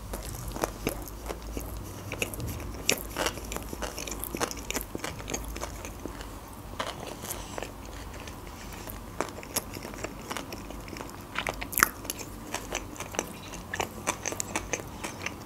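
Close-miked chewing of sushi rolls: wet mouth sounds with many short, irregular clicks, the sharpest about twelve seconds in.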